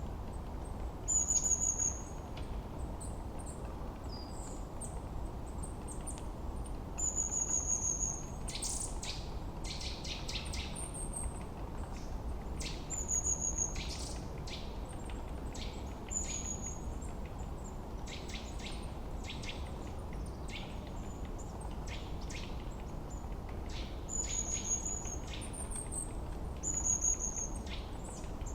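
Several forest birds singing over steady low background noise. One bird repeats a short, high call every few seconds, while others give many quick chirps through most of the stretch.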